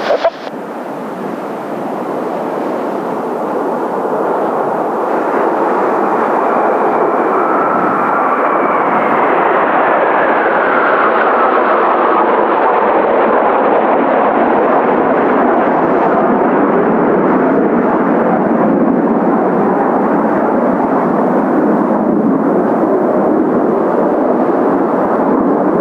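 Formation of Kawasaki T-4 jet trainers flying by, their engine noise building over the first several seconds and then holding loud and steady, with a turbine whine that falls in pitch as they pass.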